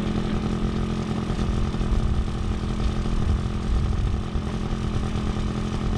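Small 50cc scooter engine running at a steady pitch, with an uneven low rumbling noise underneath.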